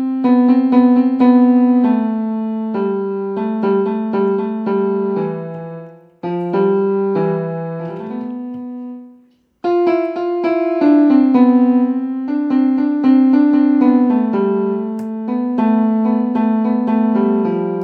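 A piece played on a piano-sounding keyboard: a melody of quick notes over held lower notes, breaking off briefly about six seconds in and again about nine seconds in before resuming.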